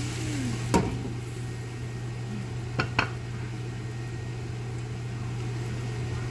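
Ground beef sizzling as it is sautéed in the pan, over a steady low hum, with sharp clicks of a utensil against the pan about a second in and twice close together near the middle.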